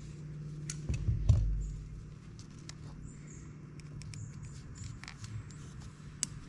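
Ratcheting gear wrench clicking irregularly as bolts are worked loose on the ATV, with a heavy thump about a second in, over a steady low hum.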